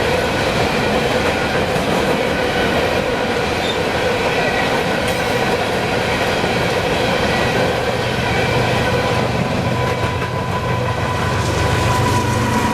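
Freight train cars rolling past on steel wheels: a steady loud rumble and clatter with thin, high ringing tones from the wheels. A deeper low rumble builds near the end.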